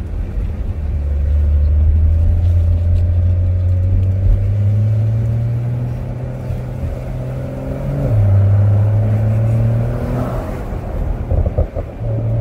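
Porsche 911 (992) Cabriolet's twin-turbo flat-six running under way, its note rising slowly, then stepping down in pitch about eight seconds in before pulling on again. Heard from the open cockpit with the roof down, with road and wind noise around it.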